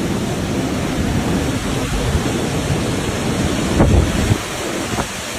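Heavy rain and strong wind in a thunderstorm, with wind buffeting the microphone, and two brief sharp bursts about four and five seconds in.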